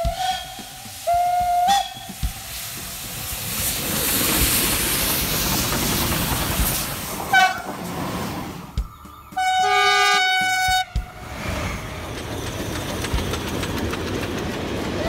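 Sequence of passing trains: a steam locomotive whistle sounds briefly near the start, followed by the steady rush of a train going by. About nine seconds in, a train horn sounds one chord-like blast lasting about a second and a half, and steady running rail noise follows.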